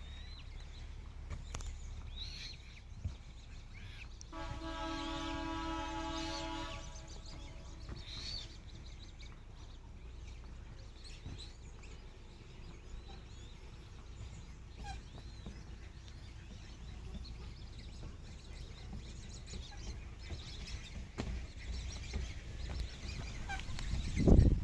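Birds calling now and then over a low outdoor rumble. About four seconds in, a steady held tone with several overtones sounds for about two seconds, and near the end there is one loud knock.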